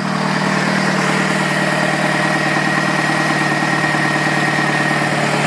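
2003 Saturn engine idling steadily, with a thin steady high whine over it that fades out about five seconds in. It runs smoothly, with no ticking or pinging: a healthy engine.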